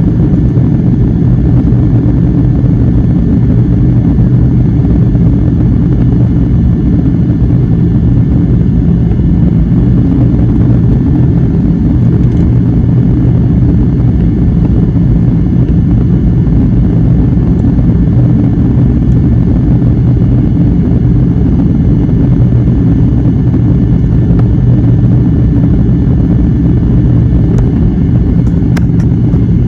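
Steady low roar of an airliner heard from inside the passenger cabin: engine and airflow noise, unchanging throughout. A couple of faint clicks come near the end.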